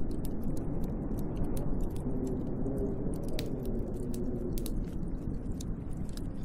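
Snowstorm wind blowing outside a window as a steady low rush, with many small sharp ticks and crackles scattered through it.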